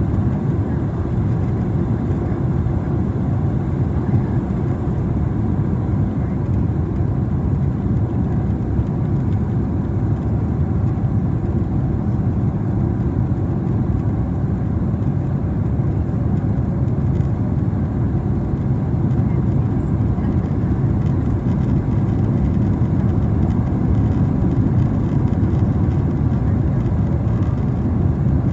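Steady low rumble of a Boeing 767-300ER's engines and rushing air on final approach, growing slightly louder toward the end.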